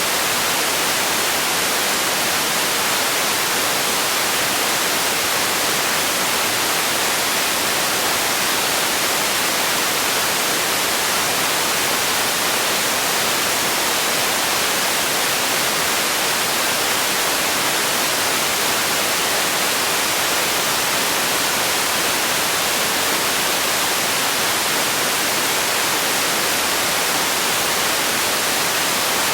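Steady electronic white noise: an even, unchanging hiss weighted toward the high end.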